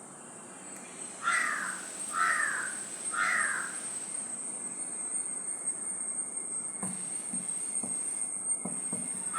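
A crow cawing three times, about a second apart, each caw dropping in pitch, over a steady high-pitched whine. A few soft knocks follow near the end.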